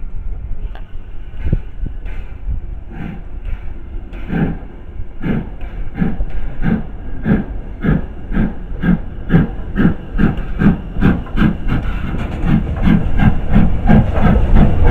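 Steam locomotive pulling away: its exhaust beats start slowly and come faster and faster, reaching about three a second by the end, over a low rumble.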